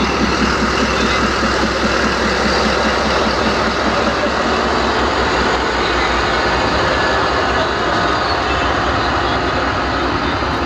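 Pakistan Railways ZCU-30 diesel-electric locomotive and its train running as the express pulls out of the station: a steady loud rumble. A rapid low throb in the first few seconds fades into the even noise of the moving train.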